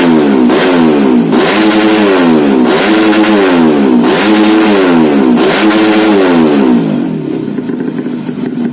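Modified 125 cc four-stroke underbone motorcycle engine revved in repeated throttle blips, the pitch rising and falling about once a second, then dropping back to a steadier idle near the end.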